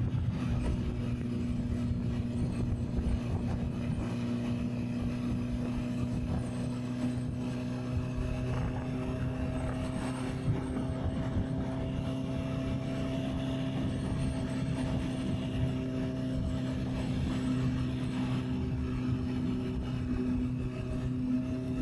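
Honda CB650R's inline-four engine running steadily at cruising speed, its pitch creeping slowly upward, with wind buffeting on the microphone.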